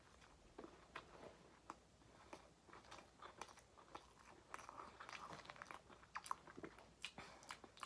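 Faint chewing of a McChicken sandwich: scattered soft crunches and mouth clicks, more frequent in the second half.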